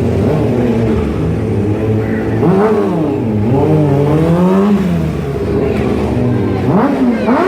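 Stunt motorcycle engine revving up and down repeatedly over a steady low drone.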